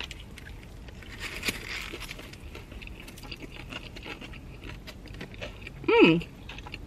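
Close-up eating sounds: chewing a sandwich, with small wet clicks and soft rustles of wrapper paper. About six seconds in comes one short hummed "mm" whose pitch rises then drops, louder than the chewing.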